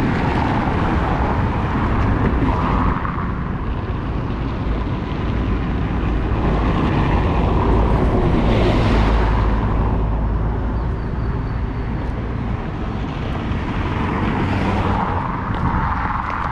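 Road traffic running steadily, with vehicles passing close by about halfway through and again near the end.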